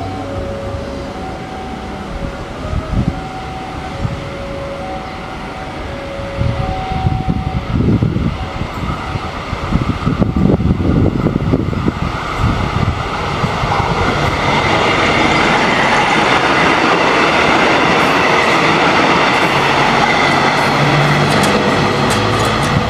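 A multiple-unit passenger train approaches and passes close by. A low rumble builds into loud, steady running noise from about two-thirds of the way in. For the first several seconds a two-note alarm sounds, alternating high and low.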